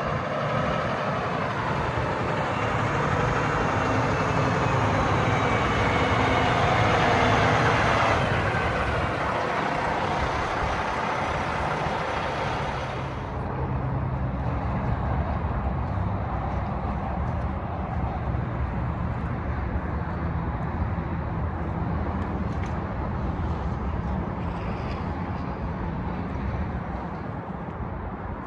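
Heavy tandem-axle dump truck's Cummins X15 turbo diesel running under way, its engine note climbing over the first several seconds. It eases off about eight seconds in, and the sound turns duller from about thirteen seconds on.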